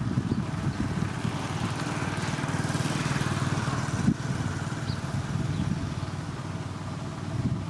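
Motor grader's heavy diesel engine running steadily with a low pulsing rumble, joined by a hiss that swells and fades about halfway through.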